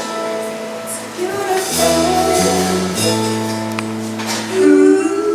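Live band music: held chords that change every second or so, with sharp percussion hits over them.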